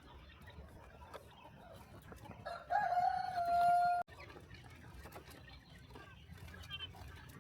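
A rooster crows once, one loud call of about a second and a half at a steady pitch that cuts off suddenly, over faint clucking of hens.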